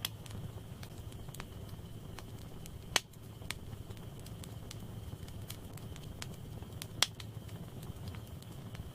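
Wood fire crackling steadily in a fireplace, with many small pops and two loud, sharp snaps, about three seconds in and about seven seconds in.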